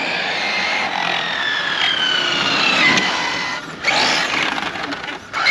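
1/7-scale electric RC rally car running, its motor and drivetrain whining high with the pitch sliding slowly down over the first three seconds, over a haze of tyre noise. The sound drops out briefly twice, near four seconds and near the end, and the whine rises again right after the second break.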